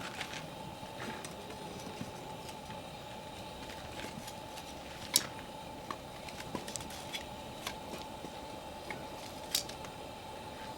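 Wood campfire crackling: a steady hiss with scattered small pops, and two louder sharp pops, about five seconds in and near the end.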